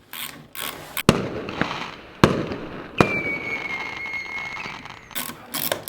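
Three sharp bangs roughly a second apart over a noisy background, the third followed by a steady high whistle lasting about a second and a half, with a few more cracks near the end.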